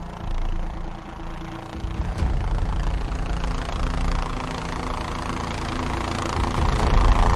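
Helicopter engine and rotor rumble, growing steadily louder from about two seconds in.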